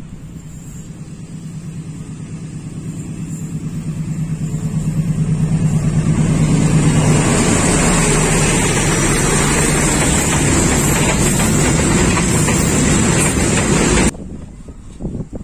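Diesel-electric locomotive hauling a container freight train past at close range. The engine drone and the rumble of the wheels on the rails grow louder over about seven seconds and then hold steady, before cutting off abruptly a little before the end.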